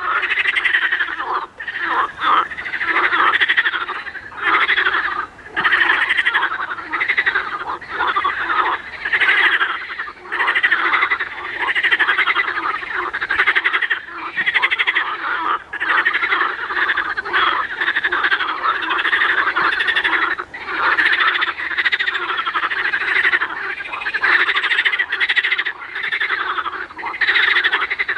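A loud chorus of many frogs croaking at once, dense overlapping calls that swell and dip every second or two.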